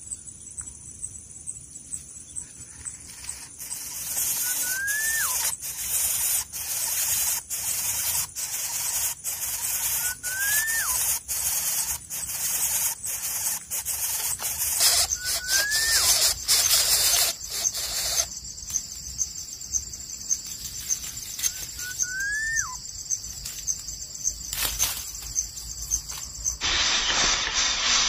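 A bird gives a short rising-then-falling whistle about every six seconds, five times, over a steady high hiss that swells into a louder, pulsing hiss through the first half.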